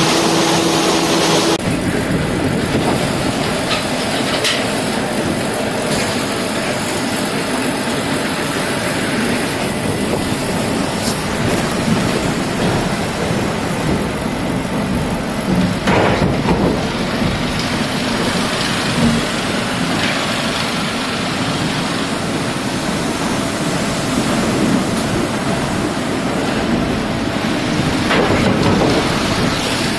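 Industrial sawmill machinery running: a steady, loud mechanical din with scattered knocks and clatter, one louder knock about halfway through. A pitched hum cuts off early, about two seconds in.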